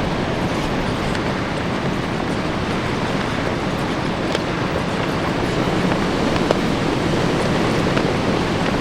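Storm-force wind rushing steadily and heavily, with a few faint sharp snaps of flags flapping in it.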